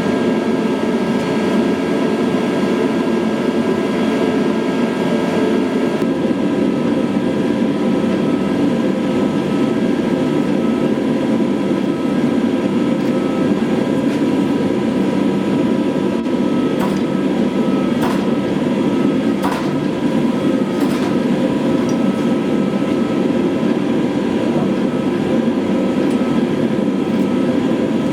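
A loud, steady mechanical rushing noise with a few faint steady tones above it. A handful of faint clicks come about two-thirds of the way through.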